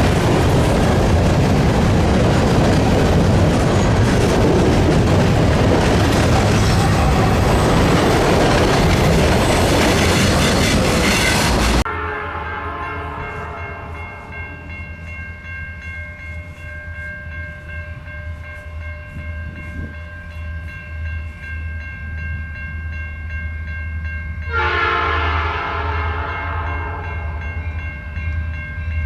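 CN freight train, led by SD60 diesel locomotives, passing close with loud wheel and rail roar that cuts off sharply about twelve seconds in. After that, a low locomotive rumble continues under steady ringing tones, and a single horn blast sounds about twenty-five seconds in.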